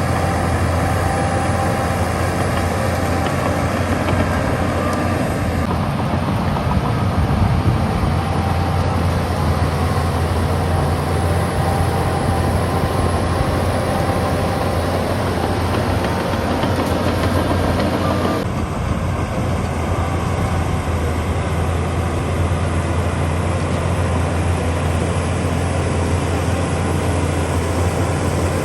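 Heavy diesel earthmoving machinery running steadily, a deep continuous engine drone, with abrupt shifts in its tone about six and eighteen seconds in.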